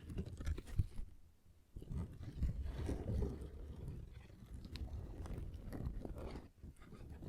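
Fingertips tapping and scratching close to the microphone, a dense run of soft taps and crackly scrapes, with a brief pause about a second in.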